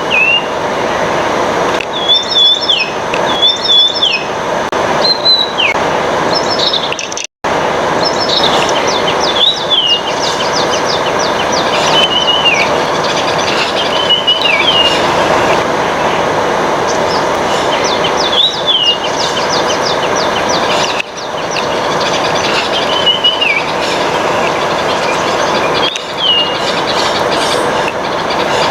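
Rufous treepie calling again and again, a short whistled phrase ending in a downward slur, every two seconds or so, over a steady loud rushing noise. The sound cuts out for an instant about a third of the way in.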